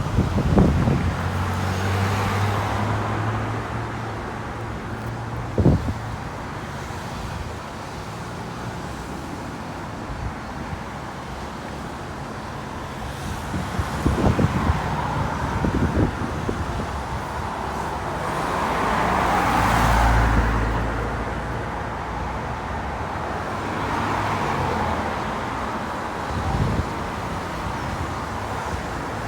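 Road traffic: a series of cars and heavier vehicles passing one after another, each swelling and fading, with a louder, deep-rumbling pass about two-thirds of the way through. A couple of short knocks are heard along the way.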